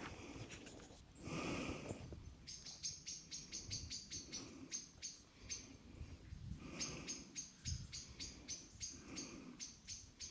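A small bird calling in quick runs of short, high chirps, several a second, starting a couple of seconds in and pausing briefly midway. Soft rustling comes now and then.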